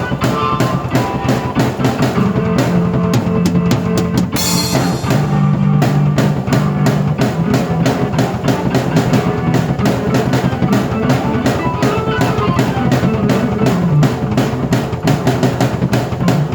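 A drum kit and a keyboard are played at once: a steady, busy drum beat runs under sustained low keyboard notes. A cymbal crash comes about four seconds in.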